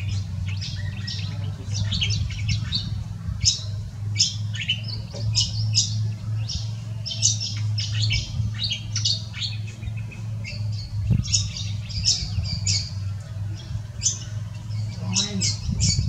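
Birds chirping and squeaking rapidly, short high-pitched calls several times a second, over a steady low hum.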